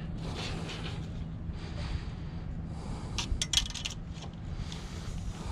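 A quick run of light clinks and scrapes, like small hard objects knocking together, about three seconds in, over a steady low rumble.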